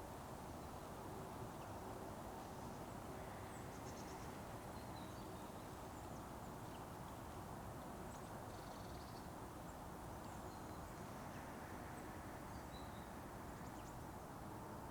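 Quiet forest ambience: a steady low hiss with a few faint, brief bird chirps scattered through it.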